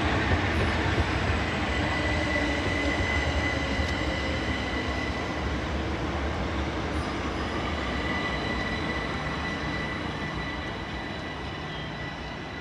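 Class 375 Electrostar electric multiple unit running past, a steady rumble with a high whine over it, slowly fading as the train moves away.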